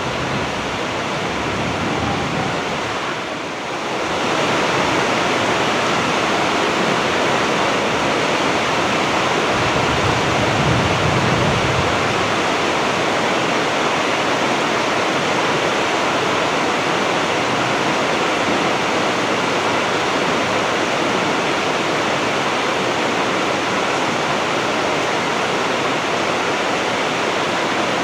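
Heavy rain pouring steadily, a dense, even hiss of downpour, with a brief dip in level about three and a half seconds in.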